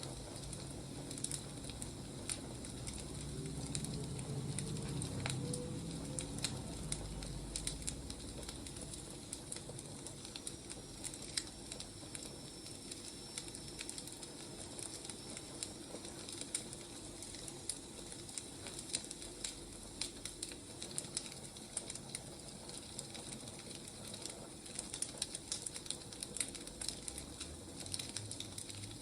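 Firewood burning: steady crackling with frequent, irregular sharp pops and snaps.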